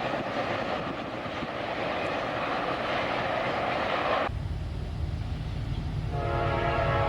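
A train rolling past with a steady rushing rail noise, which cuts off abruptly about four seconds in. A locomotive's low rumble takes over, and near the end the locomotive's air horn sounds a steady chord.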